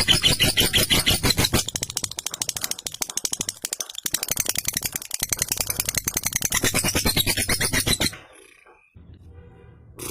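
Lovebird ngekek: a long, rapid chattering trill of sharp repeated notes. It dips in loudness for a few seconds, then comes back before stopping abruptly about eight seconds in.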